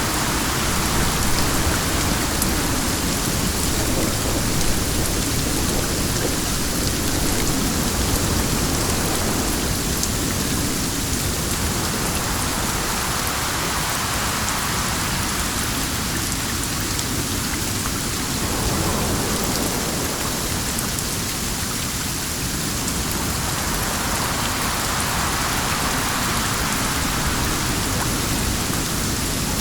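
Steady, dense rain with wind. The hiss swells and eases in slow waves every several seconds.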